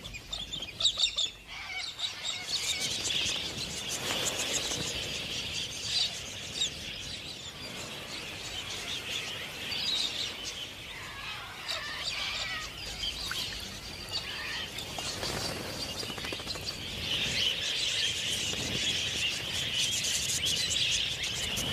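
A flock of parrots chattering and calling, many short, overlapping calls at once.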